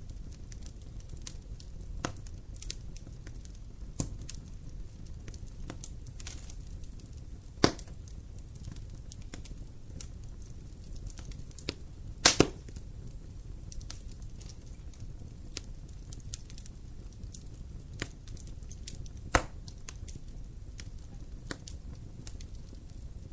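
Wood fire in a fireplace crackling over a low steady rumble, with scattered small snaps and a few loud sharp pops, one of them a quick double pop near the middle.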